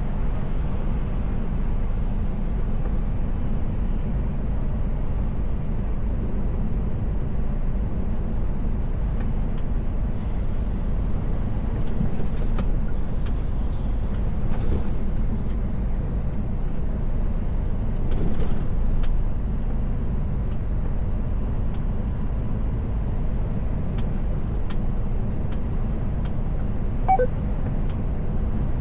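Mercedes-Benz Actros L truck driving, heard from the cab: a steady low rumble of engine and road noise, with a few brief hissing swells in the middle and a short high chirp near the end.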